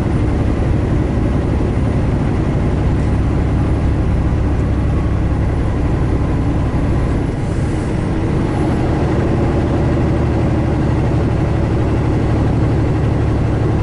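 Semi truck running at cruising speed, heard from inside the cab: a steady, low engine drone with road noise.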